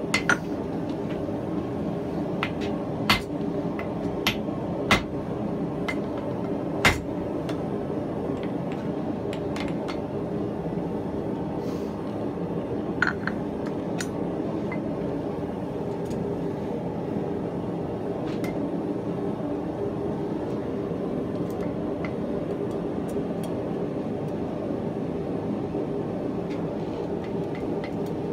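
Steady roar of a running blacksmith's forge, with a few sharp metal clinks and knocks in the first seven seconds and one more about thirteen seconds in.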